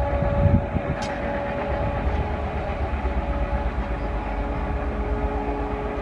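Express train hauled by an ALCO diesel locomotive running through at speed: a steady low rumble of engine and wheels on the rails, with a steady whine that drops slightly in pitch about halfway through as the train moves away. A brief sharp click about a second in.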